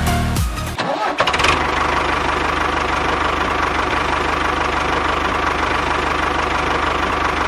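Background music cuts off just under a second in, and a small engine comes in with a brief rattle, then runs steadily with a fast, even beat.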